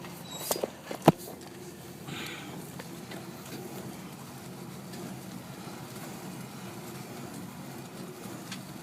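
A couple of light clicks and a sharp knock about a second in, then a steady low hum like a machine or engine running.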